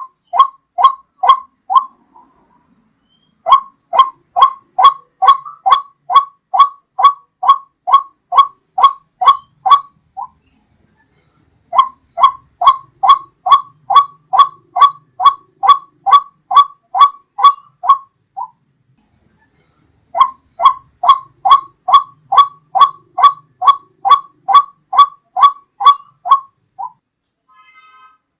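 White-breasted waterhen calls played as a bird lure: loud, clear, repeated notes about two a second, in bouts of several seconds with short pauses between.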